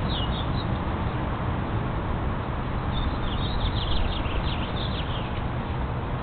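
Birds chirping: a couple of short, high, falling chirps at the start, then a quick run of them from about three seconds in, over a steady background hiss and low hum.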